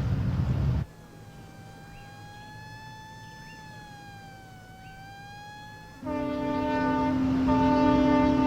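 Loud motor noise cuts off abruptly about a second in. A single siren tone then wavers slowly up and down at moderate level. About six seconds in, a louder, steady, lower siren tone comes in.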